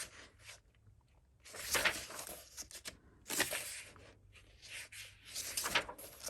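Pages of a paperback coloring book being turned by hand, paper swishing and rustling about three times in a row.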